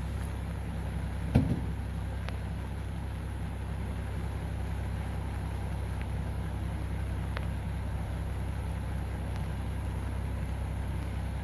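Vehicle engine running steadily with a low, even drone, and a single sharp knock about a second and a half in.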